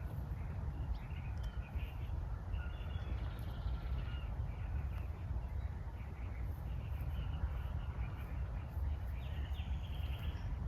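Birds calling in short bursts, mostly in the first few seconds and again near the end, over a steady low rumble.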